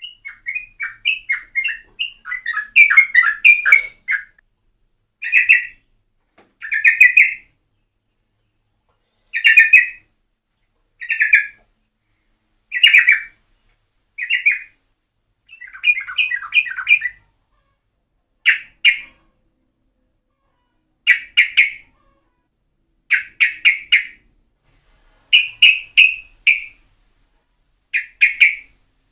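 Sooty-headed bulbul (trucukan) singing vigorously. Quick bubbly notes crowd together in the first few seconds, then short burbling phrases repeat every second or two with silences between.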